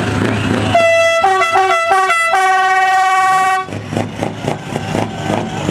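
Truck musical air horn playing a quick run of changing notes, then holding one note for over a second, over a running truck engine. When the horn stops, the open-piped diesel engine is heard alone, pulsing rapidly.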